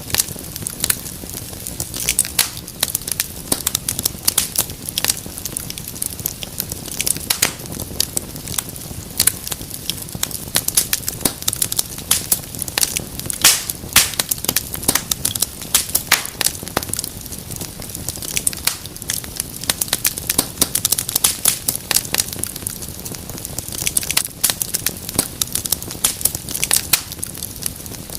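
Wood fire in a fireplace crackling: dense, irregular sharp pops and snaps over a low, steady rumble of burning.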